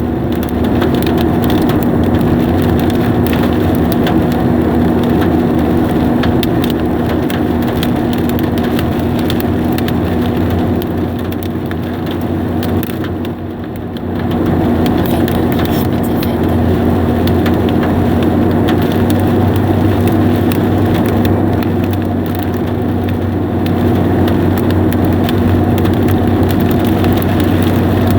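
Hailstones drumming on a car's roof and windows: a loud, dense rattle of countless small impacts, easing briefly about halfway through, over a steady low hum.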